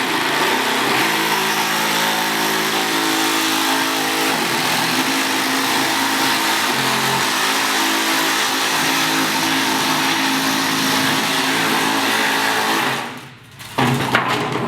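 A power tool motor running steadily under load on aluminium sheet metal, stopping abruptly near the end, followed by a few sharp clicks and knocks.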